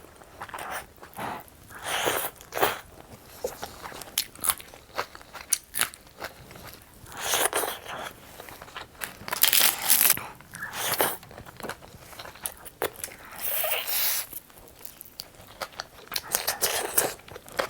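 Close-miked mukbang eating: crunchy bites and chewing, a run of short crackling crunches with a few louder bites now and then.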